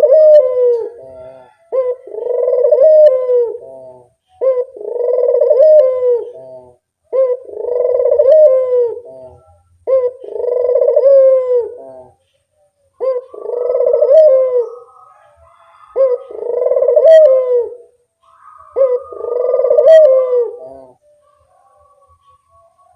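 Barbary dove (burung puter) cooing in a regular rhythm. About eight phrases, one roughly every three seconds, each a short note followed by a longer, swelling rolling coo. It is played as a lure call to draw other doves.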